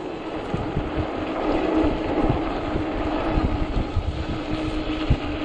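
Fat-tire electric bike riding over snow, its 48 V motor giving a steady, even whine, with wind buffeting the microphone.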